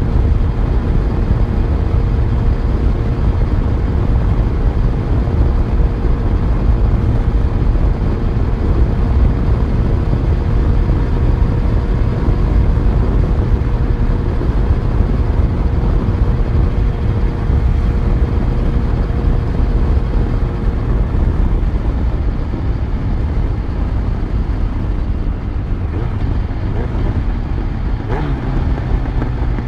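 Yamaha FZ1's inline-four engine running under way, with road and wind rumble. The engine's steady note fades after about twenty seconds, and its pitch drops briefly near the end.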